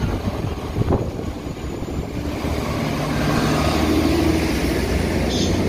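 Transport for Wales multiple-unit train pulling out of the platform, its engine drone building up about halfway through, with a single knock near the start.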